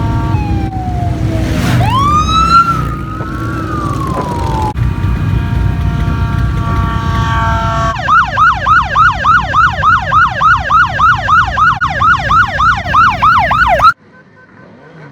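Emergency-vehicle sirens over a low engine rumble: slow rising and falling wails first, then a steady held tone, then a fast yelp of about three sweeps a second. The sound cuts off abruptly near the end.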